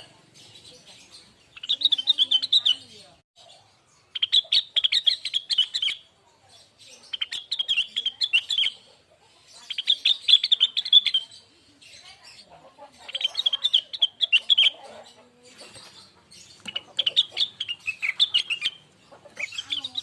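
Blue-winged leafbird (cucak wilis, rengganis) singing: fast, warbling chattery phrases of one to two seconds each, repeated about every three seconds with short pauses between.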